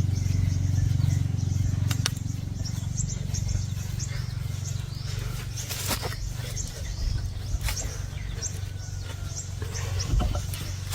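Small birds chirping in short high calls, over a steady low mechanical hum that fades away over the first few seconds. A few scattered clicks.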